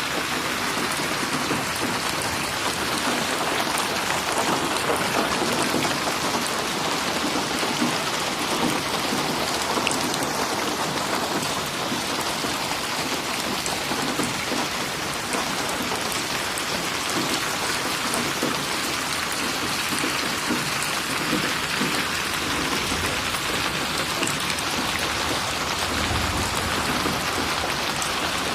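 Steady heavy rain falling and splashing on surfaces, without thunder.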